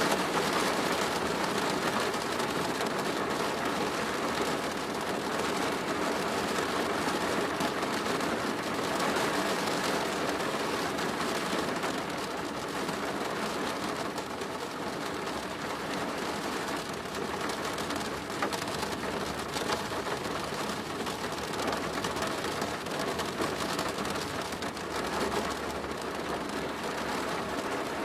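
Rain falling steadily on a plastic roof: a dense, even patter of drops on the roofing.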